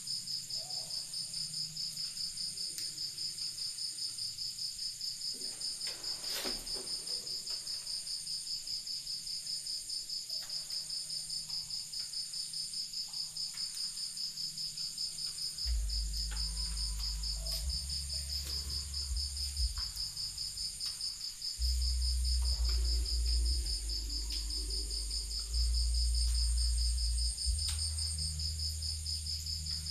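Crickets chirping in a steady, fast-pulsed high trill. About halfway through, a deep low rumble comes in and swells and drops in steps beneath them.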